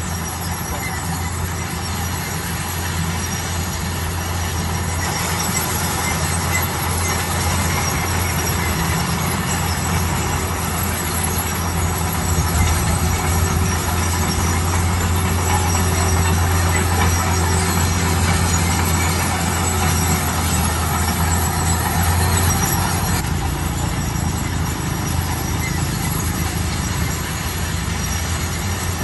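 Heavy construction machinery running steadily, its engine hum strongest from about five seconds in until shortly before the end.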